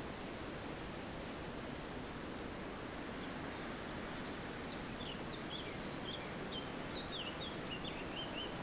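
Steady wind through forest trees, an even rushing hiss. From about halfway through, a small bird chirps a quick run of short, high notes.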